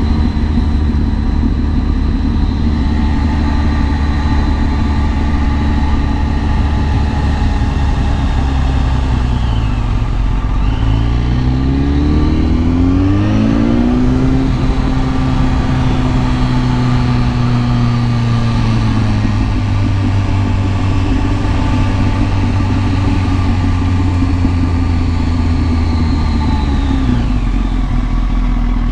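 Kawasaki ZX-10R inline-four sport-bike engine running under way over wind noise. About eleven seconds in it revs up hard through several quick upshifts, then holds a steady note and drops back off near the end.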